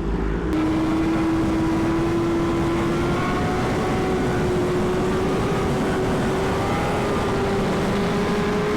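Superbike engine running high in the revs, its pitch climbing slowly and steadily as the bike accelerates, over a steady rush of wind noise.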